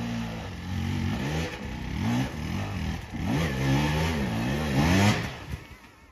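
Enduro dirt bike engine revving hard in repeated up-and-down bursts on a steep, slippery climb, loudest about five seconds in. The engine then stops abruptly as the bike goes down on its side.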